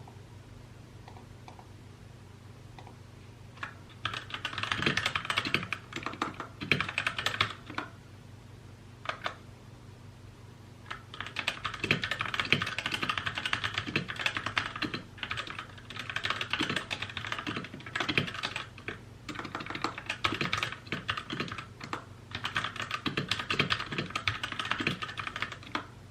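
Typing on a mechanical keyboard: quick runs of key clicks begin a few seconds in, break off into a few single keystrokes, then turn into long stretches of steady, fast typing with short pauses.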